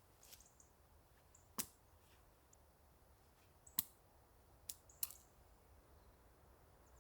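A few sharp, separate clicks and knocks of small pieces of fatwood being handled and worked, over a near-silent background.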